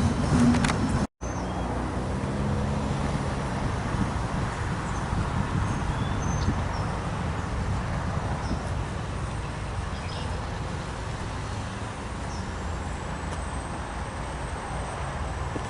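A passing train's rumble cuts off abruptly about a second in. It is followed by a steady low vehicle rumble, engine-like and traffic-like.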